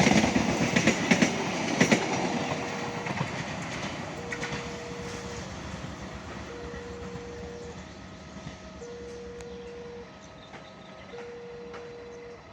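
A train passing with its wheels clattering over the rail joints, loudest in the first two seconds and then fading away. Over it, a repeating electronic tone sounds in steady beeps of about a second each, with a second, higher note joining in alternation in the latter half.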